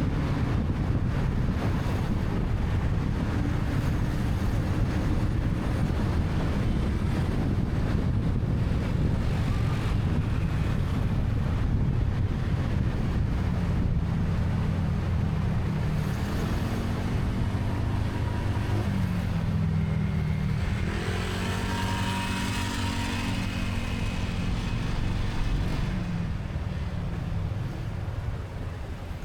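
Riding on a motorcycle: wind buffeting the microphone over the engine's drone, with the engine's pitch rising and falling as the throttle is opened and closed through the middle stretch. It quietens a little near the end.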